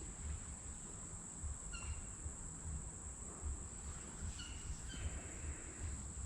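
Outdoor ambience with a steady high insect drone and a low rumble underneath. A bird gives short call notes twice, a little under two seconds in and again around four and a half to five seconds.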